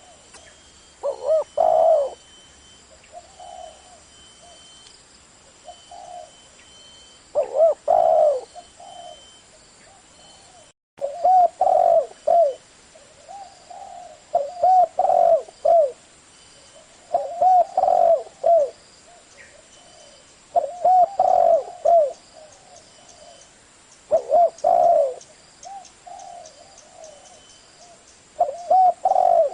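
Spotted dove cooing: short phrases of several low, rounded coo notes repeated every few seconds.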